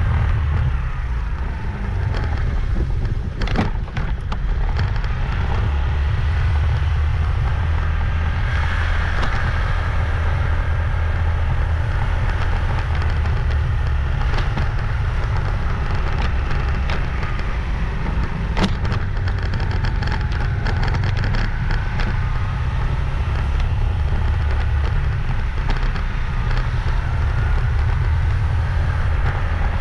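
Motorbike riding along a road: steady engine and wind rumble on the microphone, with a few sharp knocks about 3.5, 4, 14 and 18 seconds in.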